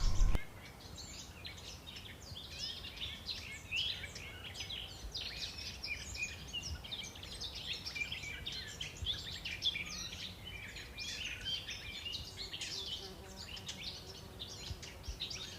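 Birds chirping, a dense stream of short, quick chirps.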